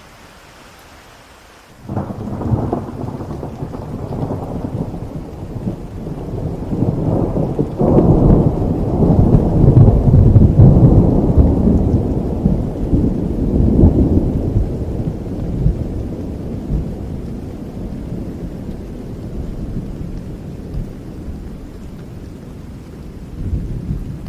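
Thunderstorm: steady rain with a long peal of thunder that breaks suddenly about two seconds in, rolls and swells for several seconds, then slowly dies away, with a smaller rumble near the end.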